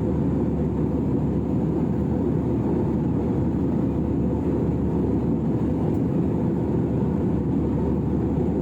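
Steady low drone of a jet airliner in flight, heard from the cabin: engine and airflow noise, even and unchanging.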